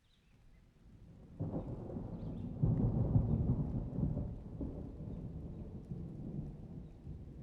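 Rolling thunder: a low rumble that swells about a second and a half in, is loudest around three seconds, then slowly dies away.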